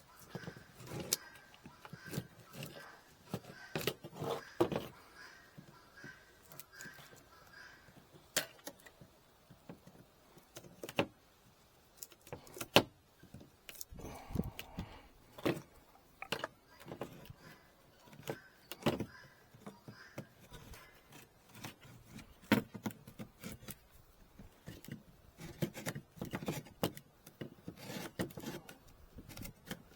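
Wooden beehive frames and hive parts being handled: irregular clicks, knocks and rattles, one sharp knock standing out about thirteen seconds in.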